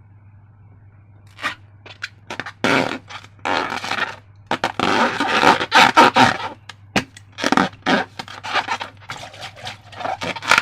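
Hands working slime and transparent balloons: a run of irregular scraping, squishing noises that starts about a second in, over a steady low hum.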